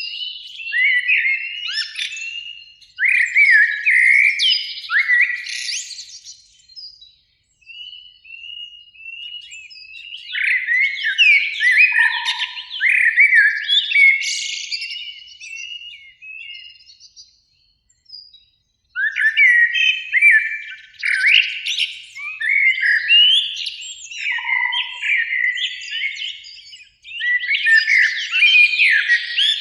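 Common blackbird song: a male sings repeated several-second phrases of rich warbling notes that break into higher, squeaky twitters, with short pauses between phrases.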